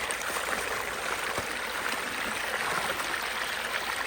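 Water rushing steadily through a partly clogged roadside culvert, an even hiss with no breaks.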